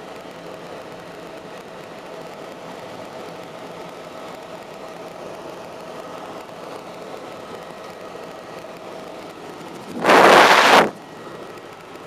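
Helicopter engine and rotor drone heard from inside the cabin, a steady hum with a held whine. Near the end a much louder rush of noise cuts in for just under a second, then the drone carries on.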